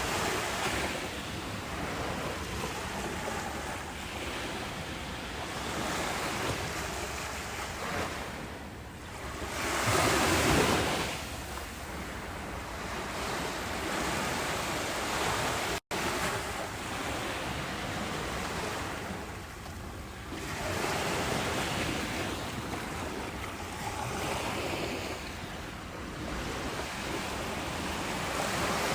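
Ocean waves surging and washing in, a continuous rush that swells and fades every few seconds, loudest about a third of the way in. There is a split-second gap in the sound just past halfway.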